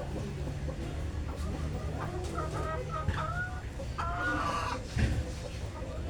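A few short, pitched animal calls in two clusters, about two and four seconds in, over a steady low hum.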